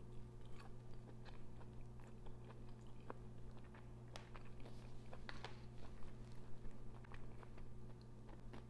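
A person chewing a mouthful of soft plant-based rib close on a clip-on microphone: scattered small wet clicks and smacks of the mouth, over a steady low hum.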